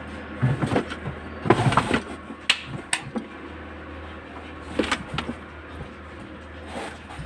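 Scattered clicks, knocks and short scrapes of parts of a car's sunroof mechanism being handled and worked loose, in several clusters, over a steady low hum.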